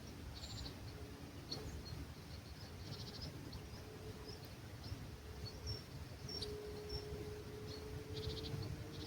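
Dawn countryside ambience: small birds calling with short, rapid high trills and scattered chirps over a low rumble of breeze. A faint steady hum comes in in the last few seconds.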